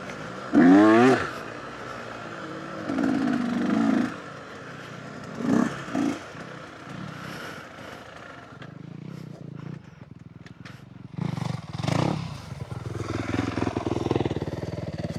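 Dirt bike engine revving in short bursts of throttle, its pitch climbing sharply just before a second in, with more bursts at about three, six and twelve seconds and lower running in between.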